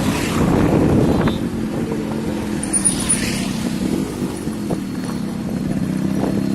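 Yamaha RX100's two-stroke single-cylinder engine running steadily as the motorcycle is ridden, with wind buffeting the phone's microphone. The engine note eases slightly after the first second or so.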